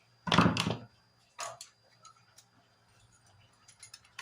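A few light clicks and knocks of kitchen things being handled, the loudest about half a second in and fainter ticks near the end, over a faint low hum.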